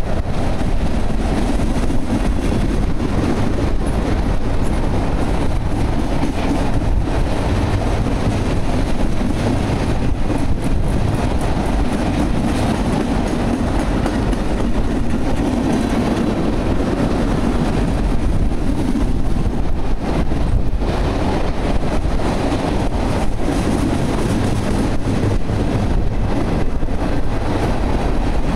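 Freight train of oil tank cars rolling past: a steady rumble of steel wheels on rail, with clicks as the wheels cross rail joints.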